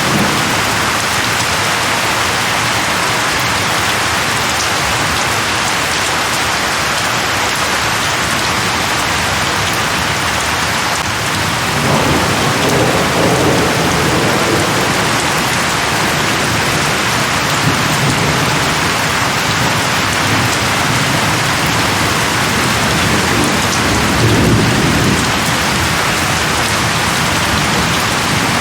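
Steady heavy rain falling, with low rolls of thunder rumbling through it about twelve seconds in and again near the end.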